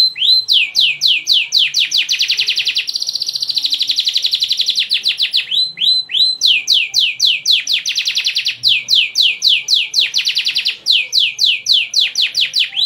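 Domestic canary singing: continuous phrases of rapidly repeated downward-sweeping chirps, several times speeding up into fast, buzzy trills.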